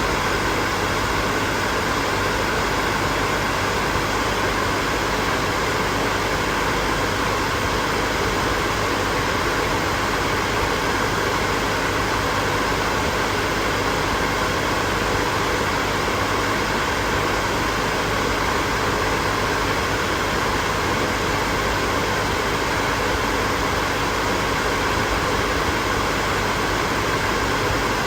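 Hair dryer running steadily, a constant rush of blown air over the hum of its motor.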